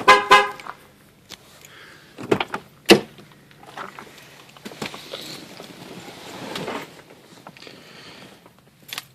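A car door being worked: a short pitched chirp at the start, two sharp latch clicks about two and three seconds in, then rustling as someone settles in.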